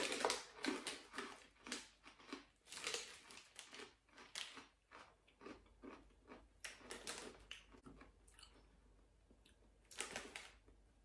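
Crunching and chewing of an Ebi Mangetsu shrimp rice cracker: irregular crisp crunches, thick in the first few seconds and thinning out later.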